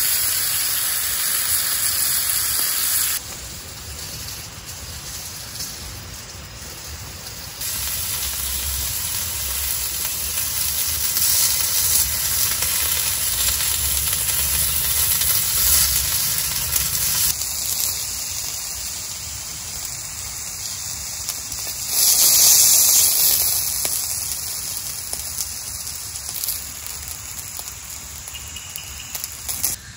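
Fish steaks sizzling on a hot ridged grill pan over a gas camp stove, a steady frying hiss that jumps abruptly in loudness several times, with rain hissing behind it.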